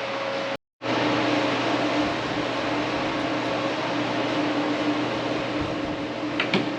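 A steady mechanical running noise with a low hum, an engine or motor, broken by a short dropout about half a second in. A couple of light clicks sound near the end.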